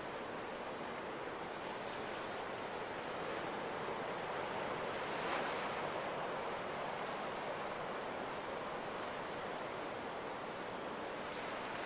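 Ocean surf washing on a beach, a steady rushing hiss that swells slightly about halfway through.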